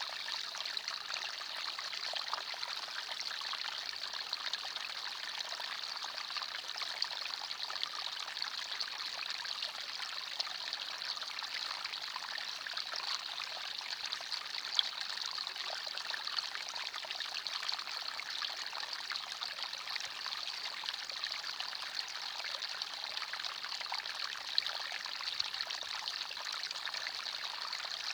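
Small forest stream trickling and babbling over stones, a steady splashing rush with small irregular water splashes.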